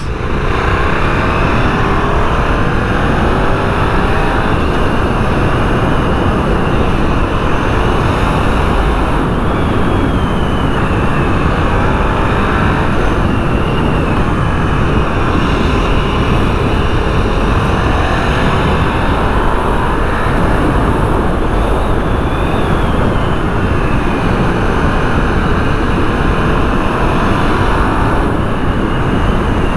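Wind rushing over a helmet-mounted microphone with the KTM 990 Superduke's V-twin engine running underneath, its revs rising and falling as the bike is ridden.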